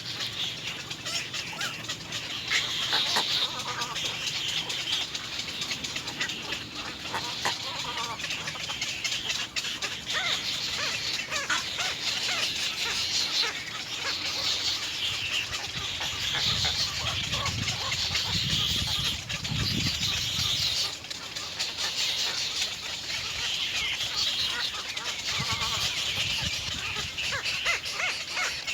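Baby birds in a nest calling over and over, a busy high-pitched chatter of begging calls, with a low rumble twice in the second half.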